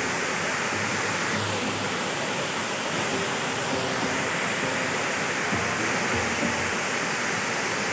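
Steady rushing of a waterfall, an even roar of falling water, with faint backing music underneath.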